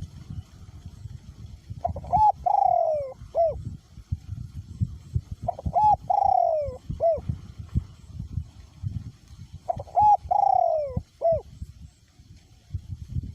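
Male spotted dove cooing, three phrases about four seconds apart. Each phrase is a couple of short notes, one longer note falling in pitch, then a short closing note. Gusty wind rumbles on the microphone underneath.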